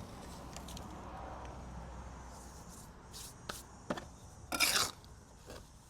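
Steel trowel mixing wet mortar on a mixing board: a soft, steady working sound, then several short, sharp scrapes and chops of the trowel, the loudest a little under five seconds in. The mix is still too wet and dry mortar is being worked in.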